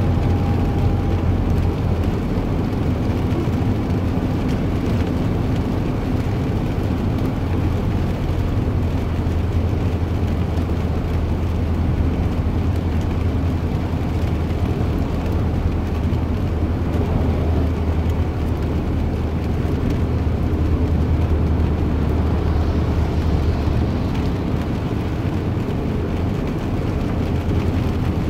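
Steady low rumble of a running vehicle, unbroken and even throughout.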